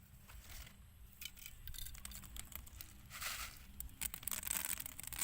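Intermittent rustling and scraping handling noises: several short bursts with a few clicks, the longest about four seconds in.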